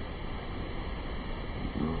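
Steady rush of water falling at a waterfall, an even noisy sound with no rhythm; a voice is heard briefly near the end.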